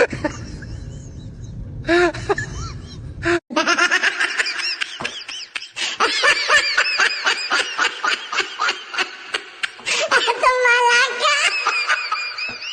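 High-pitched laughter in a long run of quick, repeated bursts, beginning after a sudden cut about three seconds in; before that, a short voice sound over a steady low hum.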